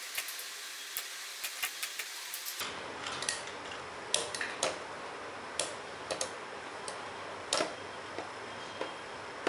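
Two Beyblade spinning tops, Lightning L-Drago 100 HF and Rock Leone 145 WB, spinning against each other with a steady whir and irregular sharp clicks as their metal wheels strike.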